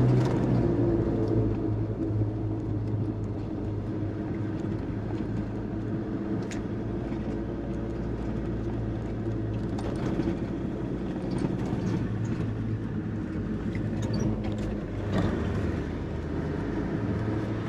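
A vehicle engine running steadily at low revs as it drives along, its pitch shifting a few times with throttle or gear changes.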